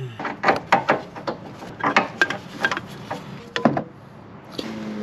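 Socket wrench being worked on a bolt: irregular metallic clicks and knocks, a few each second.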